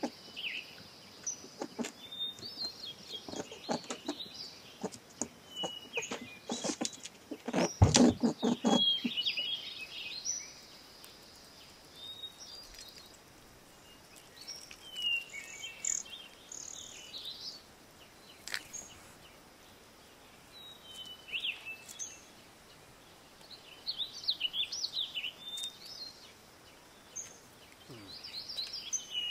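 Small birds chirping and calling on and off in short clusters of high notes. In the first ten seconds a few short noises stand out, the loudest a thump about eight seconds in.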